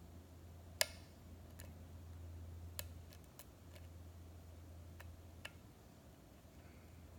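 Small, irregular clicks of a hook pick working the pins of a six-pin pin-tumbler lock cylinder under tension, about six of them with the sharpest a little under a second in. A steady low hum runs underneath.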